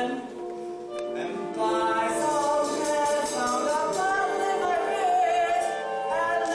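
Stage cast singing a show tune together, with long held notes.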